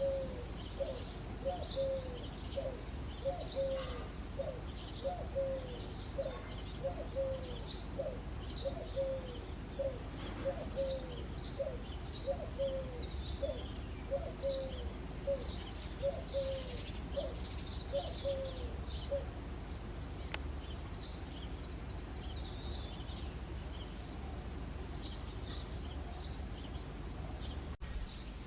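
Eurasian collared dove cooing, a long run of short low coo notes, each dropping slightly at the end, that stops about two-thirds of the way through. Other small birds chirp high and thin throughout, over a steady low background rumble.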